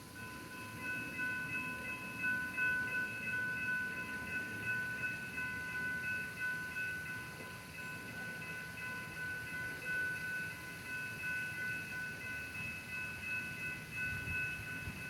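Railroad warning bell ringing steadily, with the low rumble of a train underneath.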